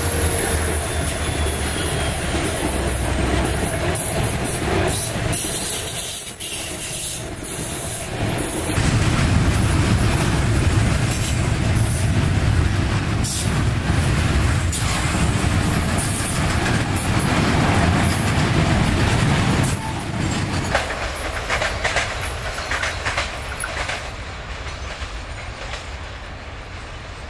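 Freight train passing close by. The locomotives' diesel engines drone low and fade in the first seconds, then loaded wagons roll past with their wheels clacking over the rail joints. After about twenty seconds the sound drops and thins as a train of tank cars moves away.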